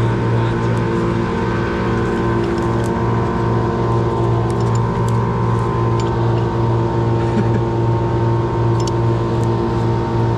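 An engine running steadily at constant speed, with a few faint light clicks over it.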